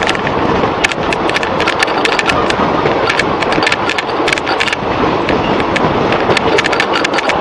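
Passenger train running at speed, heard from an open door or window of a coach: a steady rush of wheels on the rails, with dense sharp clicks and rattles as it rounds a curve.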